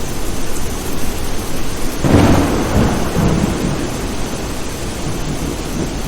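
Steady rain with a clap of thunder about two seconds in, a sudden crack that rolls off into a low rumble over the next couple of seconds.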